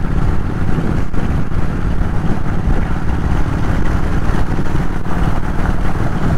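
Kawasaki VN 800 bobber's V-twin engine running at a steady, relaxed cruise of about 60 km/h, mixed with wind rushing over the helmet-mounted camera.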